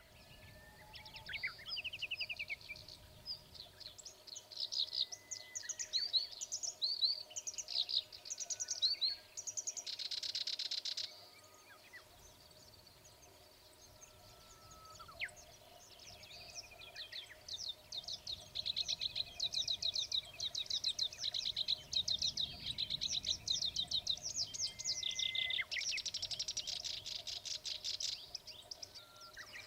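Black-browed reed warbler singing its varied chattering song at close range: quick runs of mixed notes and dry rattling trills, in two long bursts with a pause of a few seconds between them.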